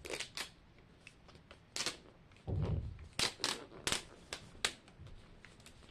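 Plastic packaging of a Mini Brands capsule crinkling, crackling and clicking as it is handled and torn open, with a dull thump about two and a half seconds in.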